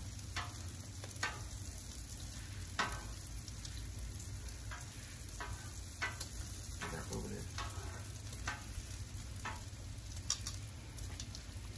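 Bacon, sausage and pancakes frying on a Blackstone propane flat-top griddle: a steady sizzle, with scattered sharp clicks of metal tongs against the griddle as the meat is turned.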